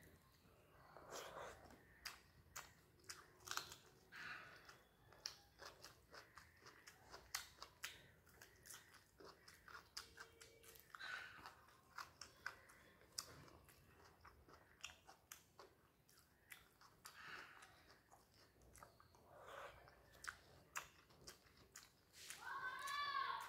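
Close-miked mouth sounds of eating rice and fish curry: chewing with many small wet clicks and lip smacks. A short pitched vocal hum comes near the end.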